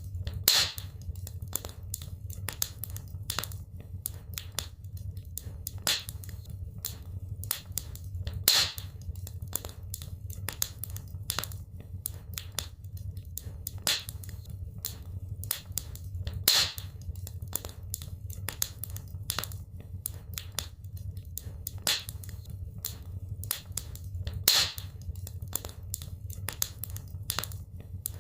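Wood fire crackling in a fireplace: a dense run of small irregular crackles over a steady low rumble, with a sharper, louder pop about every eight seconds.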